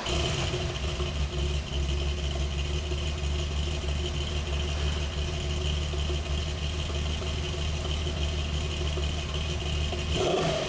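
Lamborghini Countach V12 idling steadily through a one-off custom exhaust, a deep even rumble; near the end the note briefly lifts as a rev begins.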